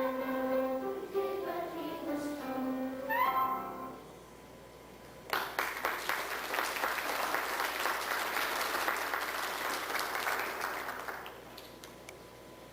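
A sung song with instrumental accompaniment ends, its last notes sliding upward. After a short pause an audience applauds for about six seconds, then the clapping dies away.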